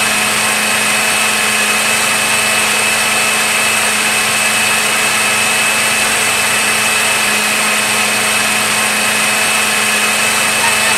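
Harsh, unchanging wall of amplified noise from a band's stage amplifiers, with a few steady whining tones held over it and no beat or melody. It cuts in suddenly just before the start.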